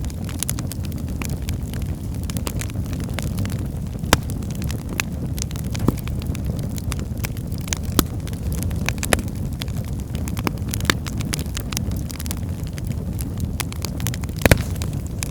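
Wood fire burning in a fireplace: a steady low rushing of the flames with irregular sharp crackles and pops of the logs, the strongest pop about fourteen seconds in.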